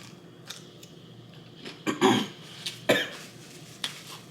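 A person coughing in two short bursts, about two and three seconds in, with small mouth clicks in between while eating.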